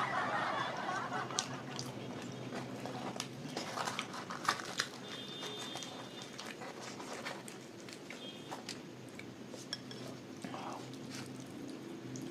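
Close-up eating sounds: scattered light clicks and taps of food being picked from a steel plate, with chewing, over a steady low hum.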